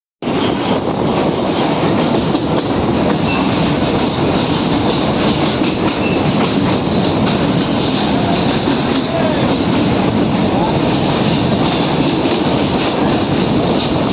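Train running along the track: a steady loud rumble and rattle of wheels on rails, with faint brief high squeals now and then.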